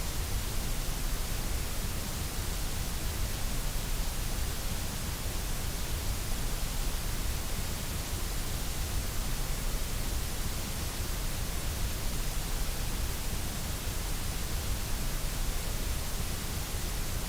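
Steady, unchanging white noise: an even hiss spread across all pitches, with no events or variation.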